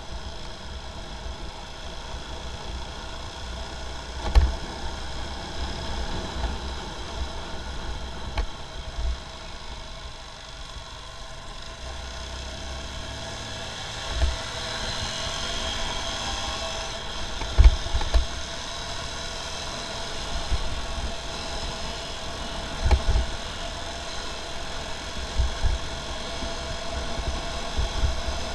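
Motorcycle engine running steadily on the move, a constant hum of even tones, with low rumble and several short low thumps.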